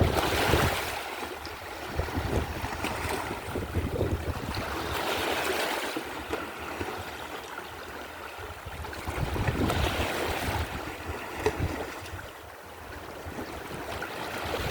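Mediterranean sea waves washing in, swelling and fading every four to five seconds, with gusts of wind rumbling on the microphone.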